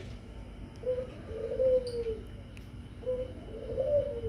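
A bird cooing: a short low note followed by a longer, slightly falling note, heard twice.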